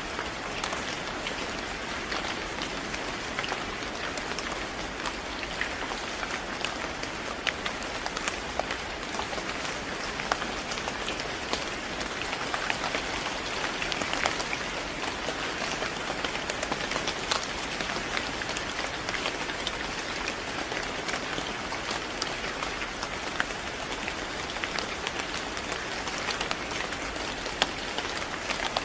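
Steady rain falling on a surface, a constant hiss with many separate drops ticking through it.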